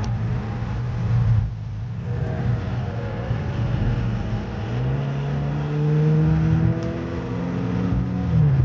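An SUV's engine and road rumble heard from inside the cabin while driving. From about five seconds in, the engine note climbs steadily as the car accelerates, then drops back sharply near the end.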